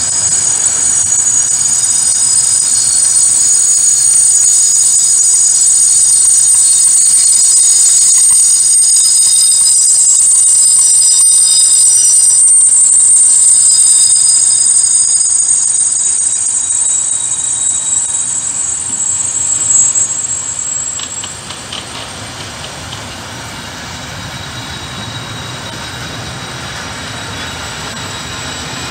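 Freight train wagons rolling past close by, the wheels squealing in several high, steady tones over the rumble of the train. The squeal fades out after about 18 seconds, with a brief loud clatter around 20 seconds. The wagons roll on more quietly after that.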